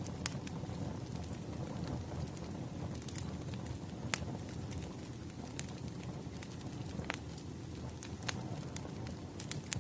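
Burning firewood crackling: a steady low rumble of flames with scattered sharp pops, the loudest about four seconds in.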